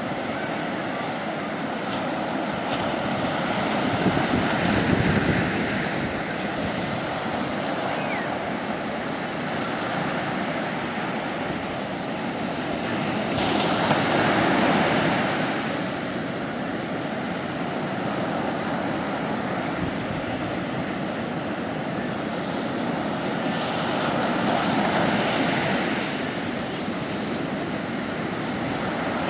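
Sea waves breaking and washing up on a beach, with a steady surf hiss. Three bigger waves swell and break: one a few seconds in, one midway and one near the end.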